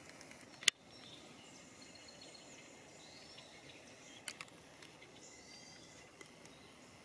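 Faint bird calls, with one sharp click just under a second in and two softer clicks about four seconds in.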